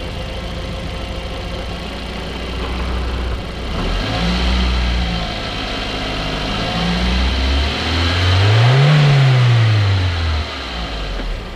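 Audi TT MK1's 1.8-litre turbocharged four-cylinder engine idling, then revved three times, the last rev the highest and loudest before it drops back to idle; the engine has a new APR R1 diverter valve and N75 valve fitted to cure a boost problem.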